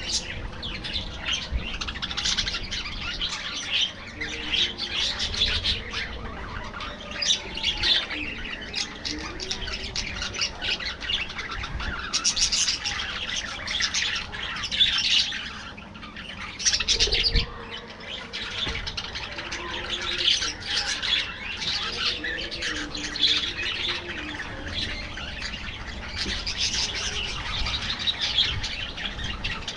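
A flock of budgerigars chirping and chattering continuously, many birds calling over each other in a steady, busy warble with no pause.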